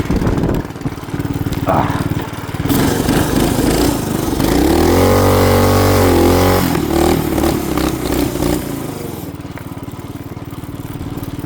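A small vehicle engine running, revving up once in the middle, holding briefly and settling back, then running more quietly near the end, with a rushing noise of wind over it.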